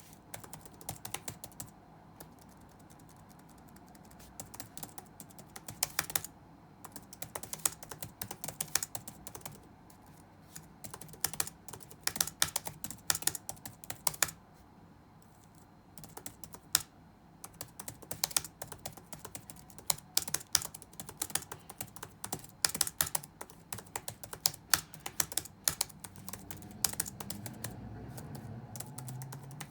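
Computer keyboard being touch-typed: fast runs of key clicks in bursts, broken by short pauses where only a few keys are struck.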